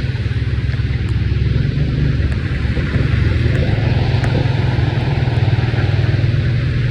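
Heavy rain falling steadily, with a strong low rumble.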